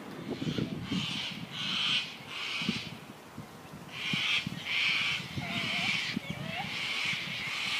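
A bird giving short, harsh, repeated calls, in two runs of about four calls each.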